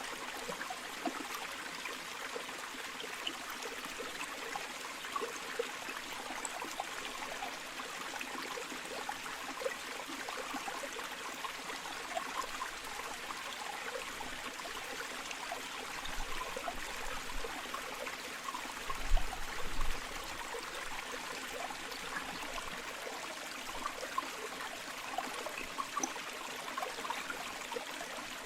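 Flowing river: a steady babble of running water with many small trickles and splashes. About two-thirds of the way in there is a brief low rumble.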